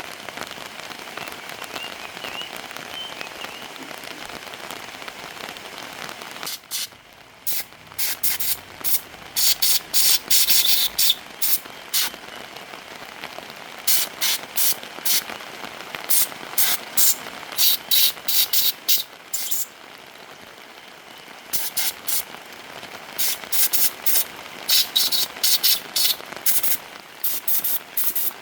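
Short hissing bursts of spray, many in quick succession, beginning about seven seconds in over a steady background hiss.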